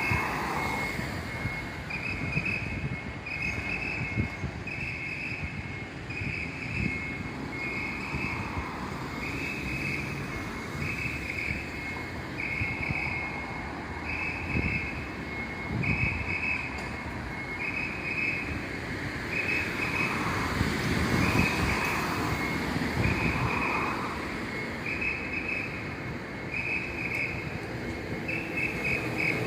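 Electronic warning beeper sounding about once a second over a vehicle's running engine and low rumble.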